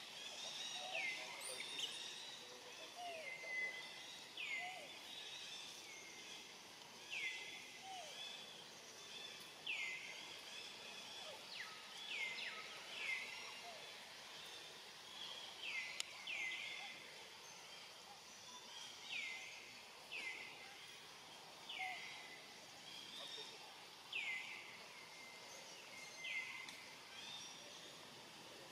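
A bird calling over and over in the forest, short falling chirps about once every second or so against a steady outdoor background hiss.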